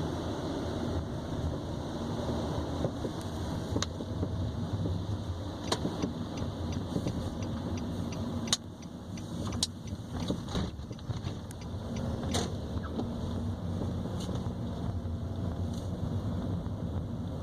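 Nissan Sentra B17 driving, with a steady road and tyre rumble and scattered sharp metallic knocks from the front right suspension, the loudest about eight and a half seconds in. These are the knocks of a front suspension fault that a dealer at one point put down to the shock absorber.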